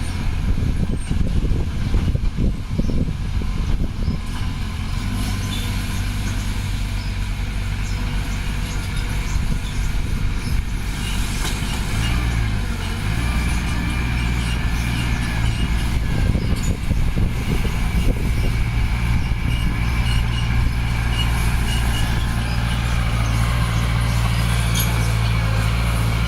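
Diesel engine of heavy earthmoving equipment running steadily under load, with irregular low clattering in the first few seconds and the engine note rising about twelve seconds in, then held higher.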